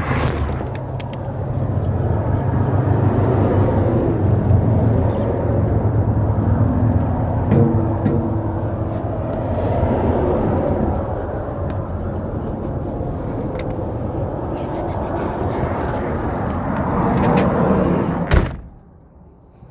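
Idling vehicle engine with a steady low hum, then a vehicle door slams shut about 18 seconds in and the engine noise drops sharply.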